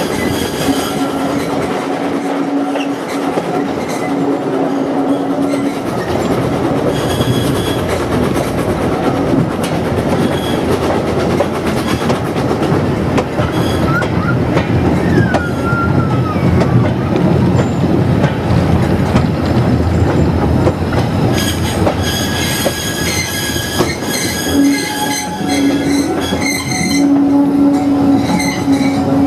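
Running heard from inside an open-window vintage railway carriage: a steady rumble and clatter of wheels on the rails. A held wheel squeal sounds for the first several seconds and returns near the end, with a brief wavering squeal around the middle.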